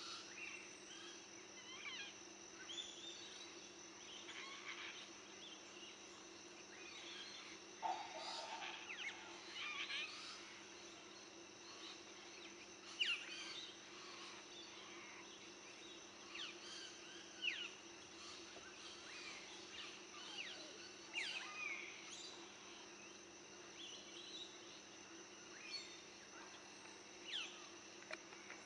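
Faint outdoor ambience: scattered short bird chirps, each sweeping down in pitch, over a steady background hum and hiss.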